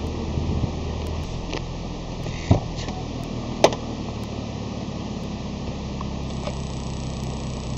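Steady hum of a Honda Accord running at idle, broken by a few sharp clicks, the loudest about two and a half and three and a half seconds in.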